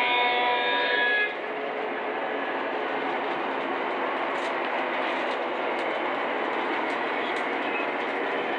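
Lionel model freight train running on its track: a horn blast from the locomotive's sound system ends about a second in, then the steady whir and rumble of the motor and wheels on the rails, with a few faint clicks.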